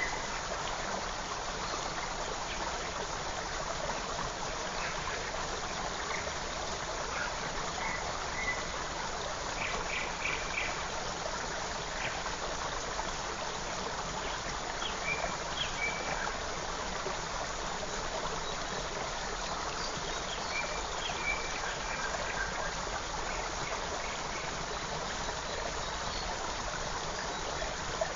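Steady rushing of a forest stream, with a few short, high bird calls scattered over it, including a quick run of four notes about ten seconds in.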